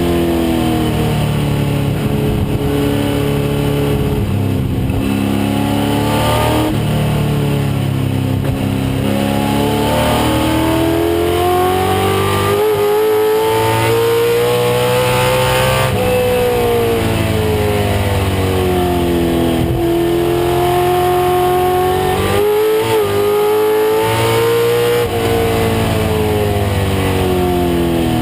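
1996 Ford Mustang race car's engine at racing speed, its pitch climbing and falling several times as the car accelerates and slows.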